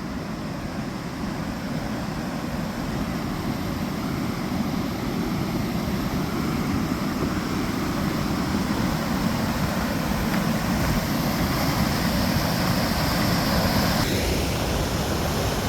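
Fast-flowing floodwater rushing through and around a weir, a steady rush of water that slowly grows louder.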